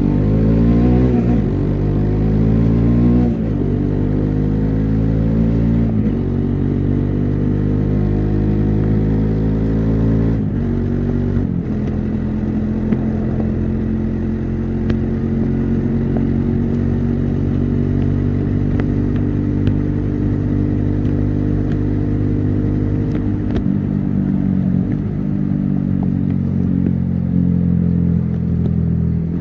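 Bajaj Dominar 400's single-cylinder engine and exhaust pulling through the gears, the note climbing and dropping back with each of several upshifts in the first ten seconds or so, then holding steady while cruising, with another gear change a few seconds before the end.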